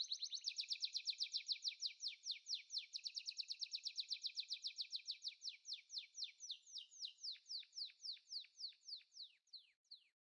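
A bird calling: a long series of quick, high chirps, each sliding downward in pitch. They come about seven a second at first, then slow to about three a second and fade out near the end.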